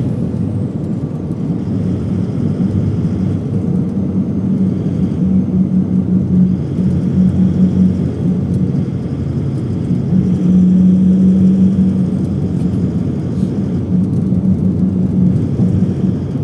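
A vehicle running with a steady low rumble and a low hum that comes and goes.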